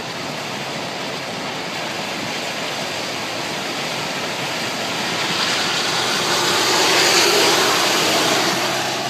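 Car tyres hissing and spraying through standing water on a flooded road, a rushing water noise that swells to a peak about seven seconds in and then eases off.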